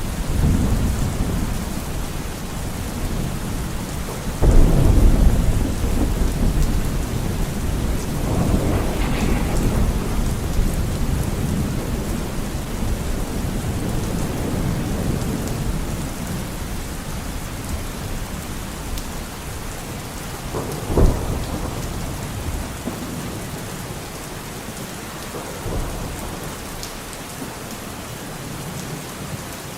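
Steady rain with rolling thunder. A loud thunderclap breaks about four seconds in and rumbles on, a shorter crack follows about twenty-one seconds in, and the rumbling dies away toward the end.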